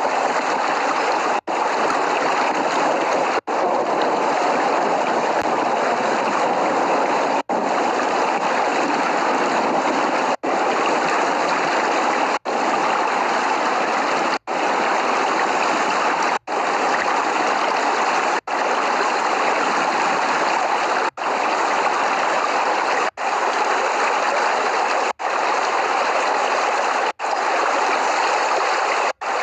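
Steady, heavy rain noise, an even rushing hiss with no thunder, cut by a brief dropout to silence about every two seconds.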